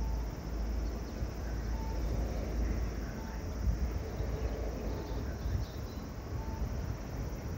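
Low, uneven rumble of a JR 115-series local train still far down the line, with short high insect chirps every second or two.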